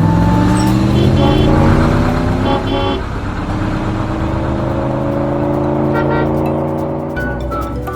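Sound effect of a vehicle engine speeding up, its pitch rising steadily twice, the second rise starting about three seconds in, with light background music.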